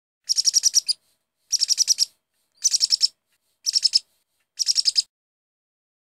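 Bird chirping: five short bursts of rapid, high twittering chirps, each about half a second long, spaced about a second apart.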